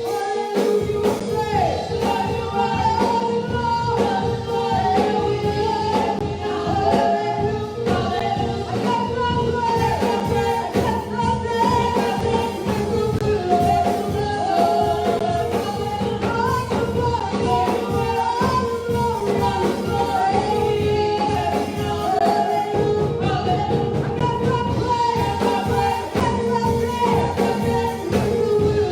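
Gospel music: singing over a band with a steady beat.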